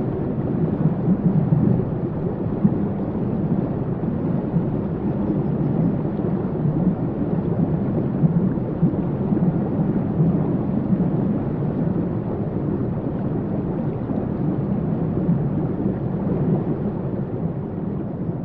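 Waterfall: a steady, deep rush of falling water, muffled, with no bright hiss on top.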